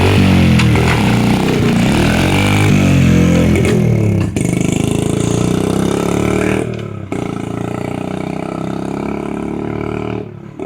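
Dirt bike engine revving up and down for about four seconds, then running at a steadier, even speed, briefly dropping off about seven seconds in.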